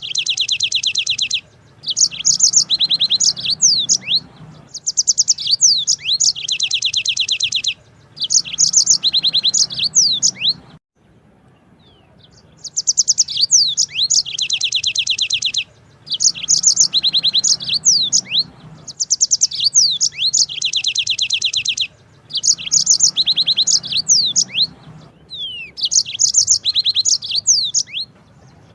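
Yellow-fronted canary (Mozambique canary) singing: long rolling phrases of fast, high trills and sweeping notes, each lasting a few seconds, repeated after short pauses, with a longer break about eleven seconds in.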